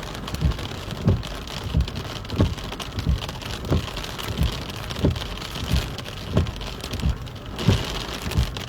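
Steady rain falling on a nearby surface, with a regular low thump about every two-thirds of a second.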